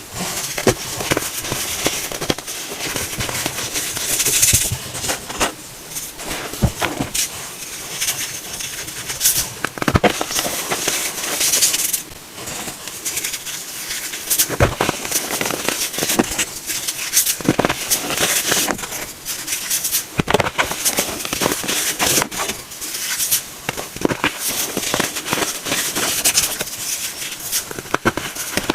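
Pressed baking soda cones being crushed: dense, continuous crunching and crackling of packed powder breaking up, with a few sharper snaps.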